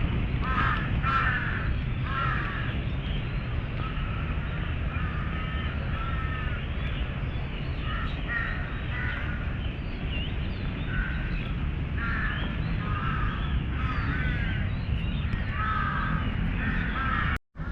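Crows cawing repeatedly over a steady low rumble of city background noise. The sound cuts out for a split second near the end.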